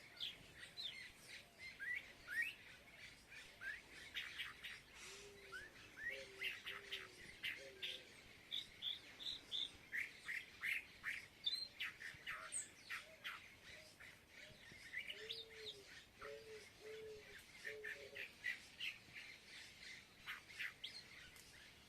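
Many small birds chirping in short, overlapping calls throughout. Another bird gives a lower call in short series of repeated notes, once a little after the start and again about two-thirds of the way through.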